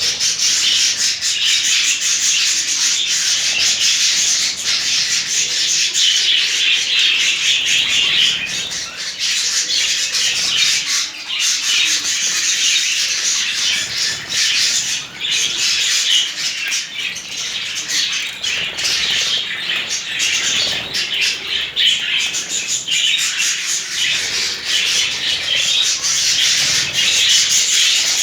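Budgerigars chattering and squawking without pause while they bathe, with wings flapping.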